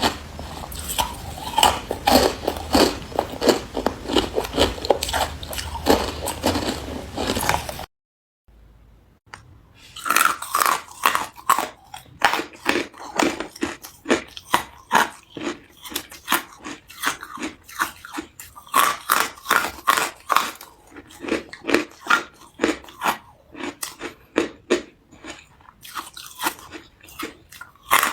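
Close-up crunching and chewing of hard carbonated ice, a dense run of sharp crunches. It cuts out for about a second and a half some 8 seconds in, then resumes as steadier chewing, roughly two crunches a second.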